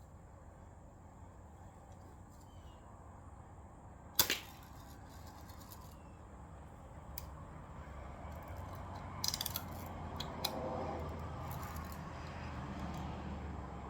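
Daisy Red Ryder spring-powered BB gun firing once, a sharp snap about four seconds in. A few lighter clicks follow near the middle.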